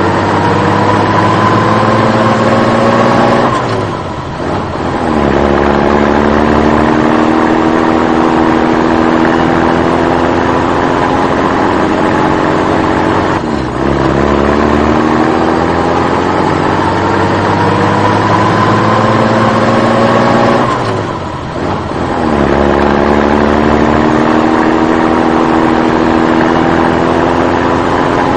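A motor vehicle engine accelerating: its pitch climbs steadily for several seconds, drops off briefly, then climbs again, in a cycle that repeats about every eight seconds.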